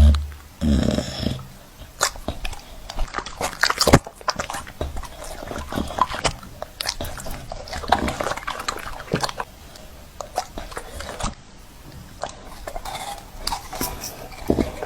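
Pitbull dog sounds, mixed with many short knocks and clicks throughout; the loudest knock comes about four seconds in.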